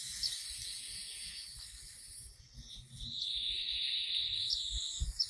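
Water from a garden hose hissing as it sprays onto plants, swelling about three seconds in, over a steady high insect drone and a few brief chirps.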